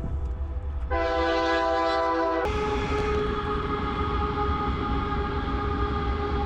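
Train horn sounding its multi-note chord, echoing. It breaks off briefly near the start, blasts again about a second in, shifts in pitch about two and a half seconds in, and then holds one long blast, over a steady low rumble.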